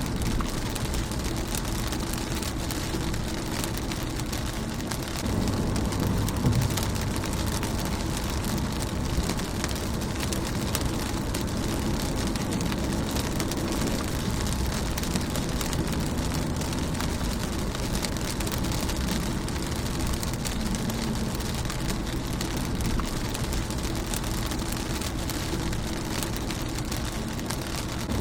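Steady rain falling on a car's windshield, a dense patter of individual drops, over a low rumble that swells a little about five seconds in.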